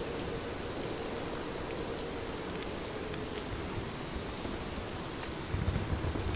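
Heavy rain falling steadily: a dense hiss scattered with small drop ticks. A deeper low rumble swells in about five and a half seconds in.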